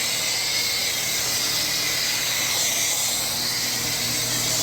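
A wash spray wand spraying steadily, a loud even hiss, with a faint steady hum from the pump or motor beneath it.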